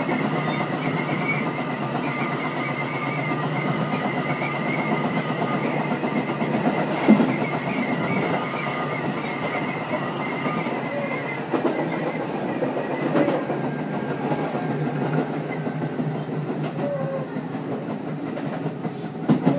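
Running noise inside the lead car of a Tobu 10030 series electric train at speed: a steady rumble of wheels on rail with a few short knocks. A thin high whistle, the wind noise that this car is known for, carries through the first half and then fades out.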